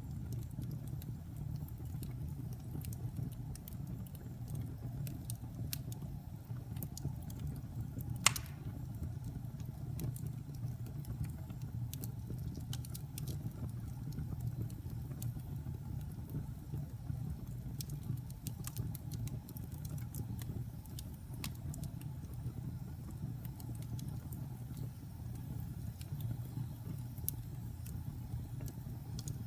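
Wood fire burning in a fireplace: a steady low roar of flames with scattered small crackles and pops, and one louder crack about eight seconds in.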